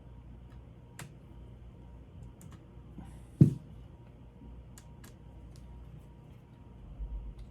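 Scattered small clicks and taps of laptop parts and screws being handled during reassembly, with one louder knock about three and a half seconds in.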